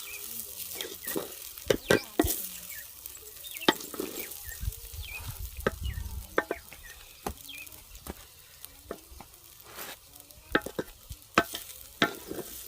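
Food sizzling in a cooking pot while a utensil stirs and scrapes it, with many irregular sharp knocks of the utensil against the pot.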